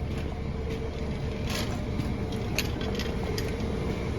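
Steady low machinery hum, with a few light clicks and knocks over it.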